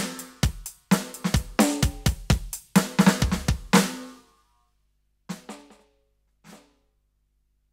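Roland TD-17KVX electronic drum kit played through its module: a quick beat of kick, snare and hi-hat runs into a busy fill and a last hit that rings out about four seconds in. Two light single hits follow, then it stops.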